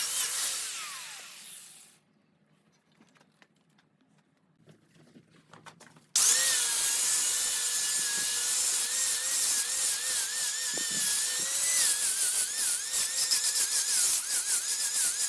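Wood lathe turning, a cutting tool rasping against a spinning wooden blank with a wavering whine. The cutting fades away over the first two seconds, then a few seconds of near silence with faint clicks, and about six seconds in it starts again abruptly and runs on steadily.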